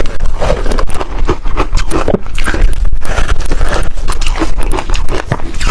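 Ice being bitten and chewed right at the microphone: loud, dense, irregular crunching and cracking.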